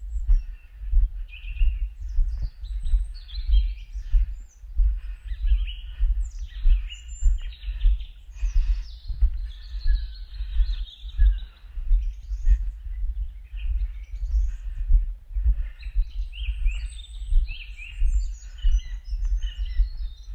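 Several small forest birds singing and chirping, overlapping, over low thuds in a steady walking rhythm of about two a second.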